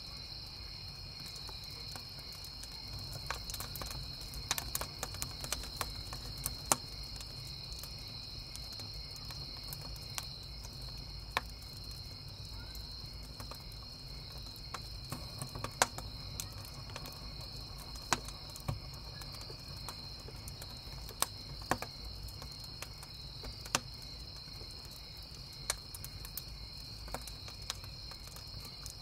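Crickets chirping in a steady high chorus, with the irregular sharp crackles and pops of a wood campfire burning.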